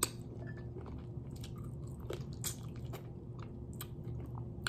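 A person chewing and biting at adobo-braised chicken feet close to the microphone: scattered small wet clicks and smacks from the mouth, with no words.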